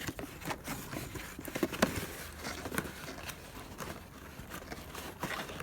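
Scattered light clicks, knocks and rustling as small-engine parts and their packaging are handled and set down.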